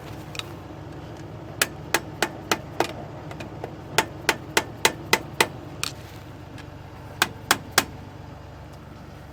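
A hand hammer striking in quick runs of blows, about four a second: six, then six more, a single blow, and three near the end. A steady low engine hum runs underneath.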